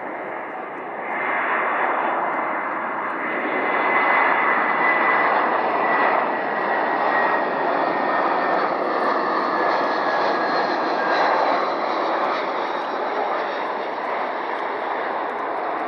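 Jet airliner's engines passing by: a steady rush that swells about a second in and is loudest around the middle, with a faint whine that falls slowly in pitch.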